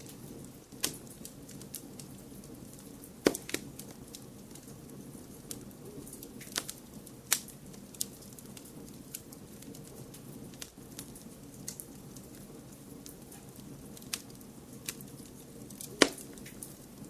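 Wood fire crackling: sharp pops at irregular intervals, the loudest about three seconds in and near the end, over a steady low rushing noise.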